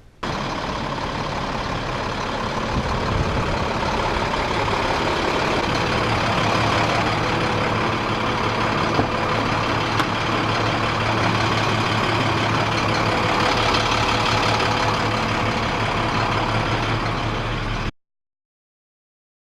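International semi truck's diesel engine running with road and cab noise while driving; a steady low hum settles in a few seconds in. It cuts off suddenly near the end.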